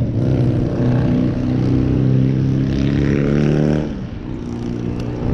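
A car engine running at a steady, raised speed, then dropping back to a quieter, lower note about four seconds in.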